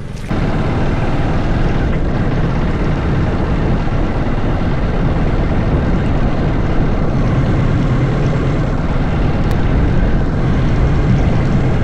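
Loud, steady vehicle running noise with a low rumble, starting abruptly just after the start.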